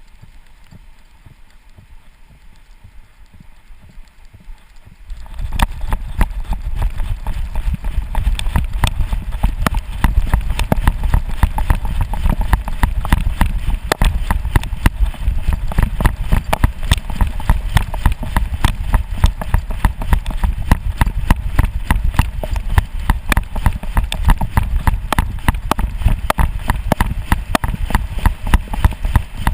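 A dog running at speed with a GoPro strapped to its harness: a fast, loud, rhythmic series of thuds from its footfalls jolting the camera. It starts suddenly about five seconds in after a quiet stretch.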